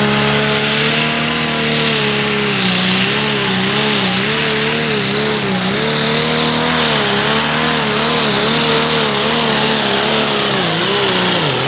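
Light limited super stock pulling tractor's engine running hard under load during a pull, its pitch surging up and down over and over. Near the end the revs drop as the run finishes.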